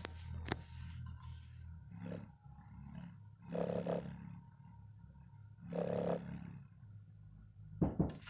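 Samsung 6-inch subwoofer driver, unmounted in free air, playing low bass with two louder, buzzier pulses about three and a half and six seconds in. A sharp click comes about half a second in and a couple of sharp knocks near the end.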